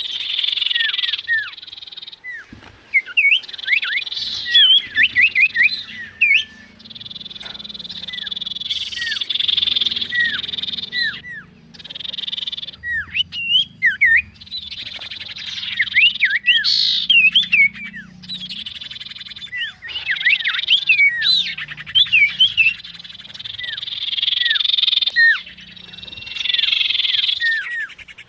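Bird calling in quick runs of short, downward-slurred whistled notes, over a loud buzzing chorus that starts and stops every few seconds.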